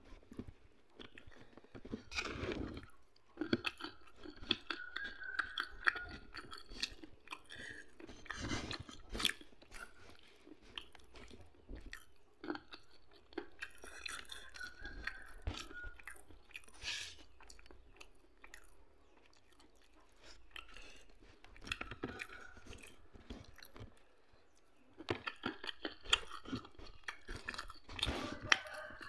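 Close-up chewing with sharp crunches: a mouthful of rice and peanuts eaten by hand, in bursts broken by two quieter pauses in the second half.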